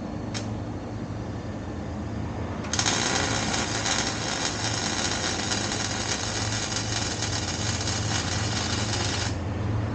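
Welding arc crackling steadily for about six seconds, laying a bead on exhaust pipe; it starts abruptly about three seconds in and cuts off sharply, over a steady low hum.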